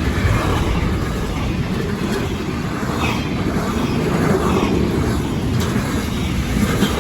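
Long intermodal freight train rolling past, a steady loud rumble of steel wheels on the track.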